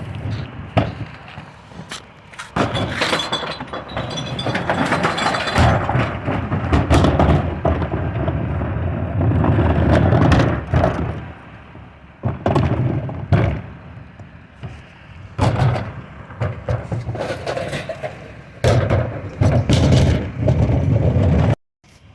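Recycling truck emptying a bin into its hopper: glass bottles and other recyclables crashing and clinking in several loud surges over the truck's low engine rumble.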